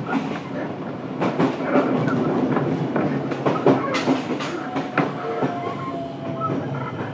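Fukuoka City Subway 1000N series train heard from inside the car, its wheels clacking sharply over rail joints above a steady running rumble. From about five seconds in, a faint motor whine falls slowly in pitch and the sound eases off as the train slows.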